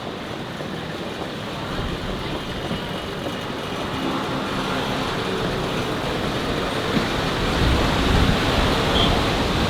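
City road traffic, with vehicle engine and tyre noise growing steadily louder through the second half as a vehicle draws near.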